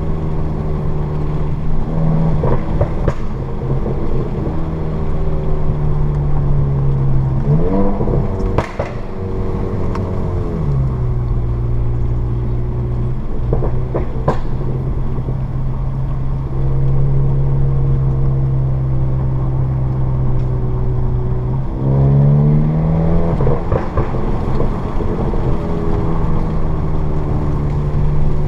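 Modified Mk7 VW Golf GTI's 2.0-litre turbocharged four-cylinder, breathing through a Borla S-Type cat-back exhaust on an APR Stage 2 crackle tune, running at steady revs under way. The pitch drops about eight seconds in and climbs again around twenty-two seconds in, with a few sharp exhaust pops.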